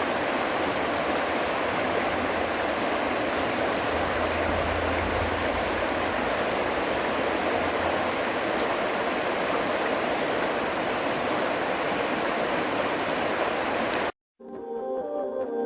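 Steady rush of flowing water, as of a stream running over rocks, that cuts off abruptly about fourteen seconds in; soft ambient music with repeating notes follows near the end.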